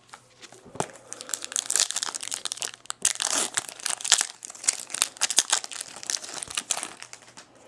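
Foil wrapper of a trading-card pack crinkling as it is torn open and handled: a dense run of small, sharp crackles that thins out near the end.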